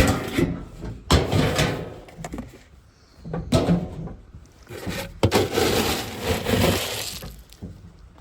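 Four rounds of knocking and scraping rustle, each starting with a sharp hit and fading out, the longest about 5 s in: chores being handled by hand in a horse barn.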